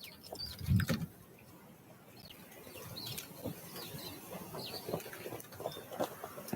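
Small wild songbirds at a feeder giving short, high call notes again and again. A single low thump comes about a second in, and light, irregular tapping runs through the rest.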